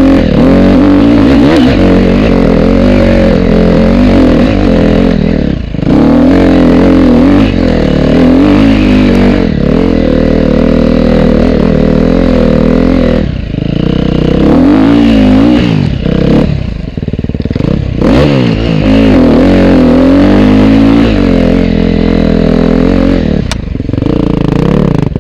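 Off-road motorcycle engine under riding load, its pitch rising and falling as the throttle is worked, with brief throttle closures or gear changes every few seconds.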